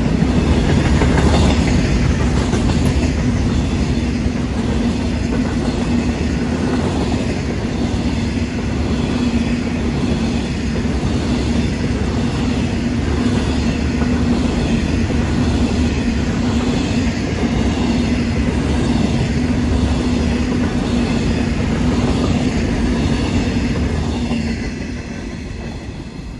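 Freight train of covered bogie hopper wagons rolling past at speed, wheels clattering rhythmically over the rail joints with a steady low drone underneath. The noise fades away over the last couple of seconds as the tail of the train passes.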